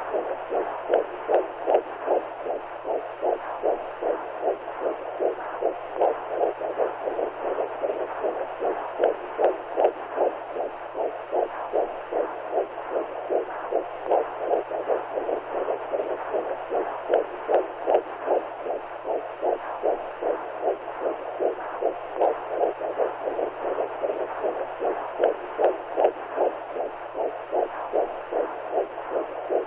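Womb sound for soothing a baby: a rhythmic whooshing pulse like blood flow with a heartbeat, repeating evenly over a steady low hum.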